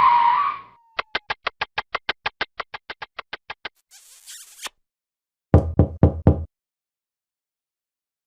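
A string of comedy sound effects: a run of about fifteen quick, even clicks that grow fainter, a short hiss, then four heavy knocks in quick succession.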